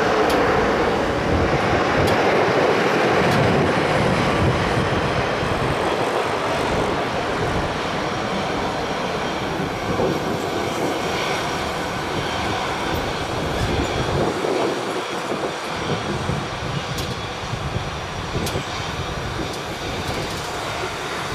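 Jet engine roar of a Garuda Indonesia Airbus A330-343 (Rolls-Royce Trent 700 engines) on its landing, a steady rumbling rush that slowly fades.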